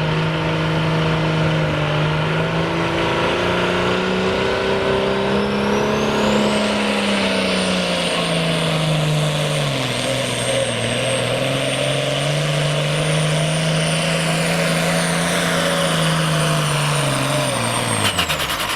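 Turbocharged diesel pulling tractor under full load, its engine holding steady revs while a high turbocharger whistle rises and then holds. The revs sag briefly midway, then near the end the engine note and the whistle drop away together as the throttle comes off.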